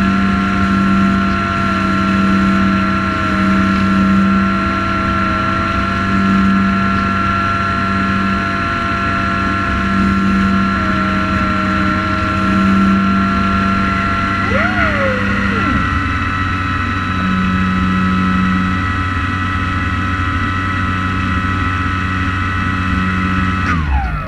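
Multirotor drone motors and propellers running with a steady high whine. About fifteen seconds in, the pitch briefly swoops up and back down as the throttle changes, and near the end the tones drop away.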